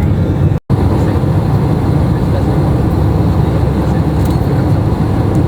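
Steady low rumble of a jet airliner's engines and airflow, heard from inside the passenger cabin, with a momentary break in the sound just over half a second in.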